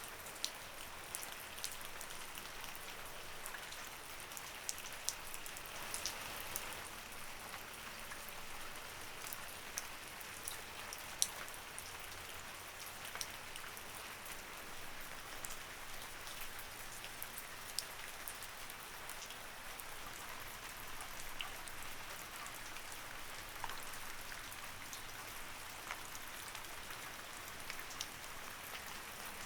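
Light rain falling steadily, an even patter with many separate sharp drop ticks scattered through it.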